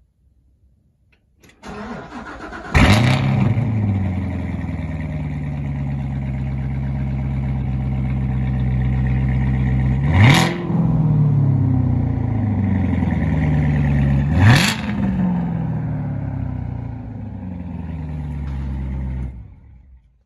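2019 Chevrolet Corvette ZR1's supercharged 6.2-litre LT5 V8 on a cold start: the starter cranks briefly, the engine catches with a loud flare about three seconds in, then settles into a fast idle that slowly drops. Two quick throttle blips come about ten and fourteen seconds in, and the engine is shut off near the end.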